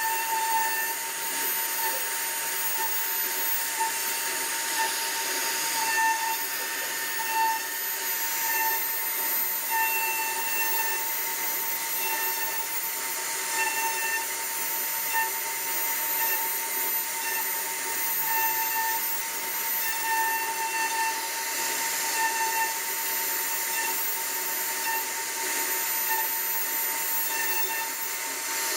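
CNC router spindle running with a steady high whine while the bit carves wood, over a constant hiss of cutting, the whine swelling slightly every second or so.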